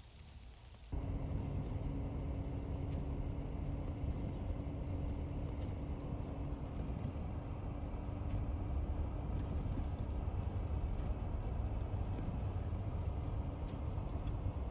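Low, steady rumble of a patrol car driving, from engine and road noise heard inside the cabin, cutting in suddenly about a second in. A steady hum runs under it for the first several seconds.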